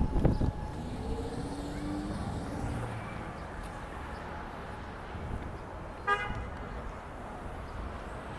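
Steady city street traffic noise, with a short, sharp car horn toot about six seconds in.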